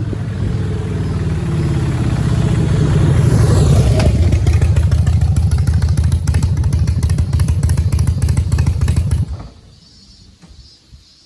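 Harley-Davidson CVO Breakout's V-twin engine running through its exhaust with a fast, even pulsing beat, growing louder over the first few seconds and then holding steady. The sound stops suddenly about nine seconds in.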